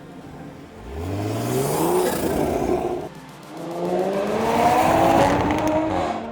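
Toyota A90 Supra 3.0's B58 turbocharged inline-six through an FI valvetronic full exhaust, accelerating hard. The note rises for about two seconds, breaks off briefly at a gear change about three seconds in, then climbs again in the next gear.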